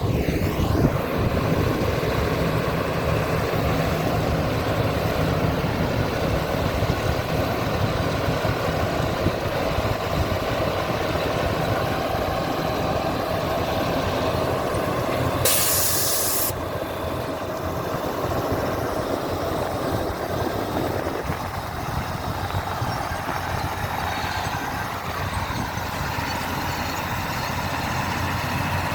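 Caterpillar motor grader's diesel engine running steadily, with a loud hiss of released air lasting about a second around the middle. The engine sound eases a little about three quarters of the way through.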